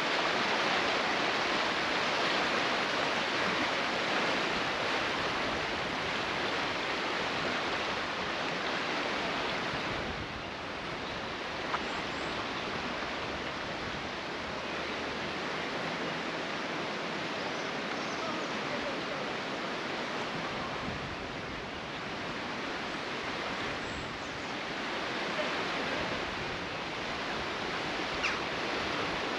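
Steady rushing of running water, like a stream pouring over stones or a weir, easing slightly about a third of the way through, with a couple of faint clicks.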